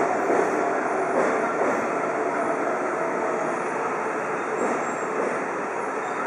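E7 Series Shinkansen train moving along the platform: a steady rush of wheels and running gear with a faint whine.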